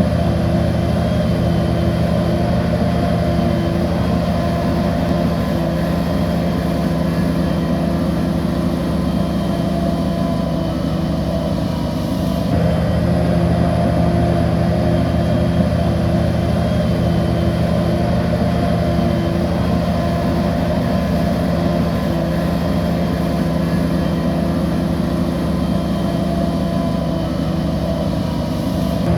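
Heavy diesel engine of a crawler bulldozer running steadily, with a slight change in tone about twelve seconds in.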